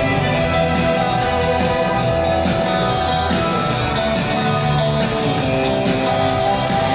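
A live rock band playing with a symphony orchestra: guitar to the fore over sustained orchestral notes and a steady drum beat, with no singing.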